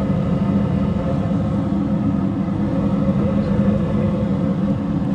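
S9V2 gas furnace running steadily with a loud, even hum just after lighting on a call for heat.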